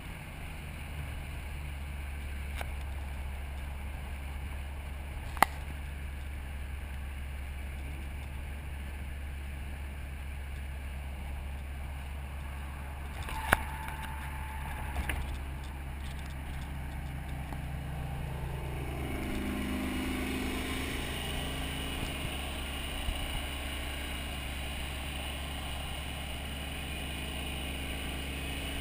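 Steady low drone of a car engine and road noise while driving at an even pace, with sharp clicks about five and thirteen seconds in. About two-thirds of the way through, the engine note briefly dips and rises.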